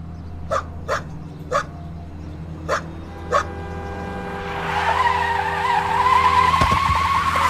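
A dog barks five times in quick short barks. Then a car's tyres screech in a long loud skid, as in a car braking hard toward a dog in the road.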